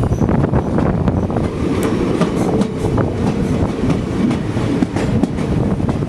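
Passenger train running on the rails: a steady rumble with many irregular clicks and clacks from the wheels.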